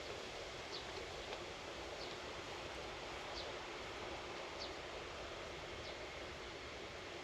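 Outdoor farm ambience: a steady rustle of wind through leaves, with a short, high bird call repeated about once every second or so.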